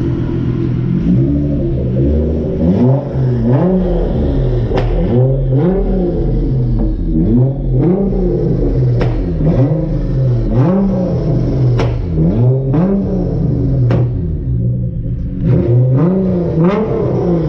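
Car engine revved repeatedly in quick blips, the pitch climbing and falling about once a second, with a brief pause near the end before a few more revs.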